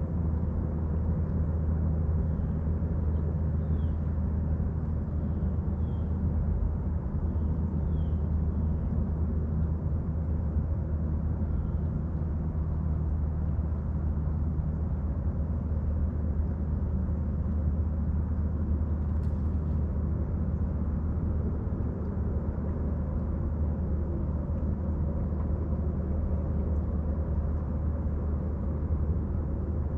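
Steady low engine rumble, even throughout, with a bird giving short high chirps every second or two during the first twelve seconds.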